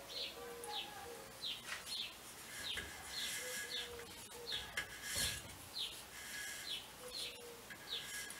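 A small bird chirping over and over, short high falling chirps about twice a second, with faint rustling as the cable is handled.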